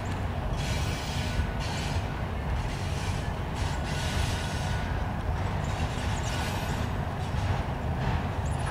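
Freight train of autorack cars rolling past: a steady low rumble of steel wheels on rail, with a higher hiss that swells and fades several times as the cars go by.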